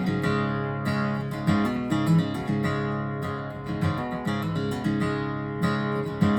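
Acoustic guitar playing an instrumental intro: strummed chords that ring on between strokes, with a sharp strum every second or so.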